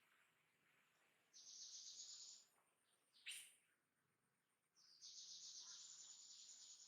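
Faint, high-pitched buzzing trills from wild animals in the background: one lasting about a second, then a single sharp chirp, then a longer trill of about two seconds near the end.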